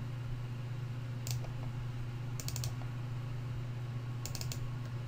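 Computer keyboard keystrokes in three short groups of clicks, over a steady low hum.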